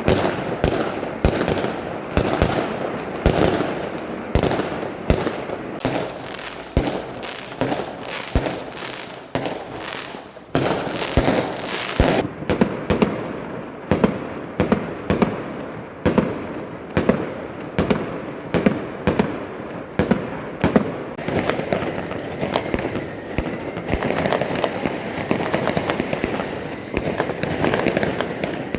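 Fireworks going off in rapid, overlapping bangs, one after another, over a continuous crackle.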